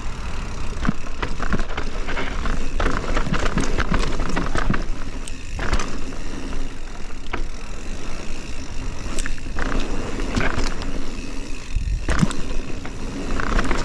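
Mountain bike descending a dirt flow trail: tyres rolling over dirt with a steady low rumble, and the chain and frame rattling in frequent clicks and knocks over the bumps.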